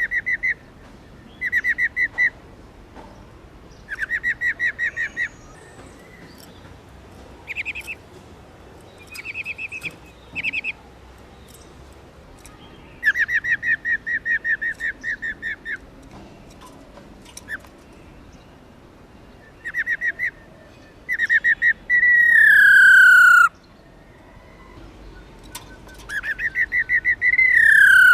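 Female black-throated laughingthrush giving its rolling 'ro ro' call: short bursts of rapid rattling trills, repeated every couple of seconds, then two long, loud whistles that slide down in pitch near the end. This is the female call used to stir males to sing.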